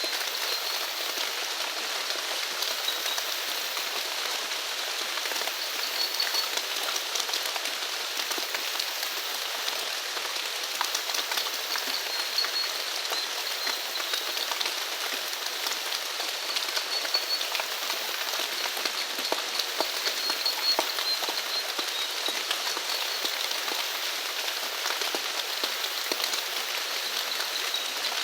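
Steady rain falling, with many small drop ticks in a continuous hiss. Faint short high chirps from a small animal recur every few seconds over the rain.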